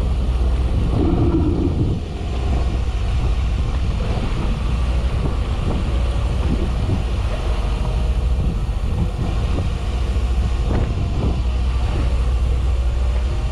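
Fishing boat's engine running steadily, a low drone, with wind buffeting the microphone.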